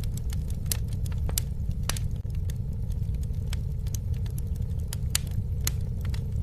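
Campfire burning: a steady low rumble of the flames with irregular sharp crackles and pops of the burning wood.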